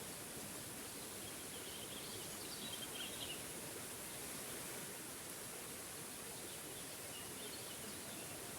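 Small forest waterfall's water rushing steadily, with birds chirping faintly in the background in two spells, about a second in and again near the end.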